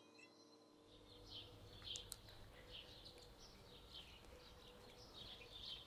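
Near silence with faint, scattered bird chirps and a low background hum.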